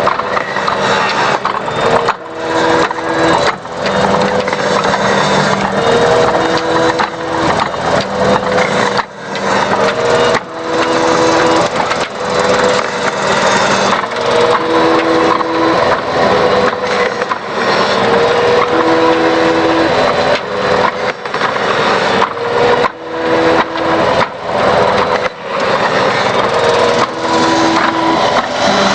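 Small woodgas-fuelled engine-generator running under a heavy electrical load of about 1500 watts, its pitch sagging and recovering about every two seconds.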